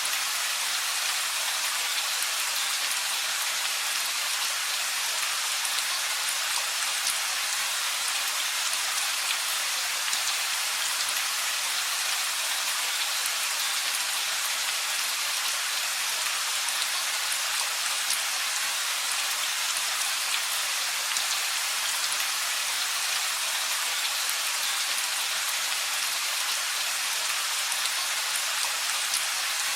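Steady rain with the fine pattering of many raindrops striking surfaces, a dense even hiss weighted toward the high end. No thunder sounds here.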